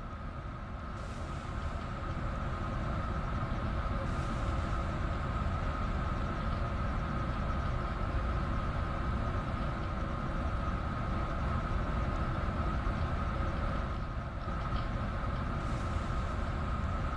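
Washing machine running: a steady mechanical rumble with a constant whine, getting louder about two seconds in.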